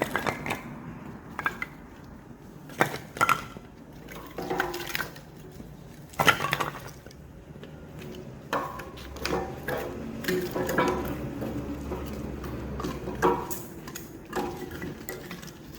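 Hydraulic log splitter forcing a cross-shaped splitting blade through an oak round: irregular sharp cracks of the wood splitting, and knocks of the split pieces falling, with a low hum from the machine for a few seconds in the middle.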